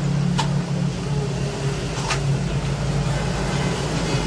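Steady low mechanical hum with two sharp, high clicks about a second and a half apart, at a phone-repair bench.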